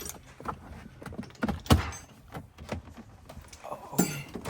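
Scattered clinks and knocks of hand tools and car parts being handled during work on a car, with a louder knock about one and a half seconds in and another near the end.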